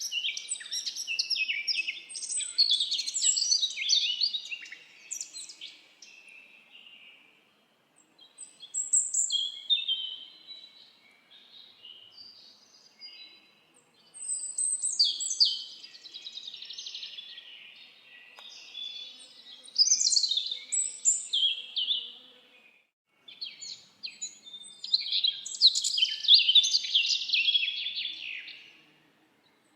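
Songbirds singing in a forest: fast, twittering high-pitched song phrases in bouts of a few seconds, with short lulls between them.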